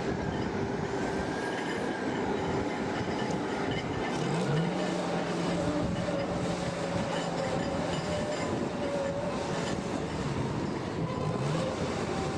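A large engine running under steady noise. Its pitch rises about four and a half seconds in and then holds, and it rises again briefly near the end.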